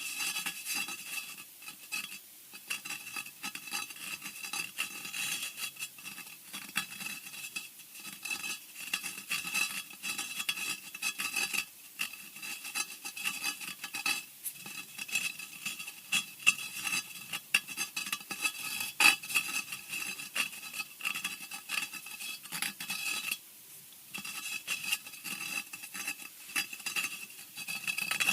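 Horror scratching sound effect: dense, irregular scratching and scraping strokes with a harsh, high edge, broken by a brief pause about 23 seconds in.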